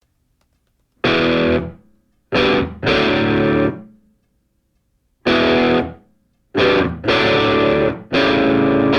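Distorted electric guitar music: loud chords struck in short stabs, each cut off or fading into a silent gap before the next.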